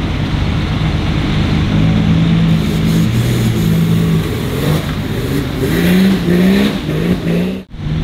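Off-road 4x4 engine running steadily, then revving repeatedly from about halfway, its pitch rising several times in quick succession. The sound drops out briefly near the end.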